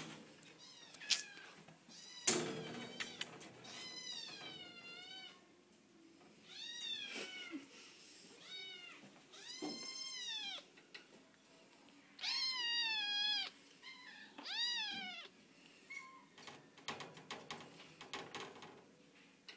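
Domestic cats in shelter cages meowing repeatedly: a string of separate calls, each rising and falling in pitch, some of them drawn out over a second, with fainter short calls and small clicks near the end.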